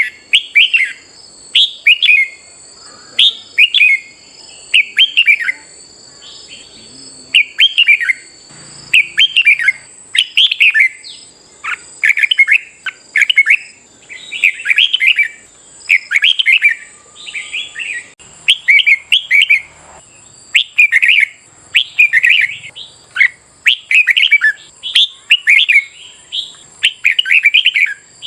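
Red-whiskered bulbuls singing: short, loud phrases of warbled whistles, repeated about once a second, over a faint steady high-pitched whine.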